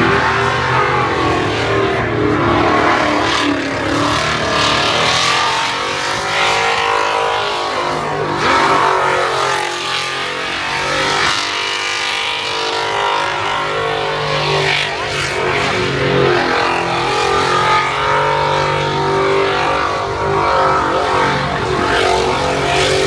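Car engine revving hard, its pitch rising and falling again and again over a steady engine drone.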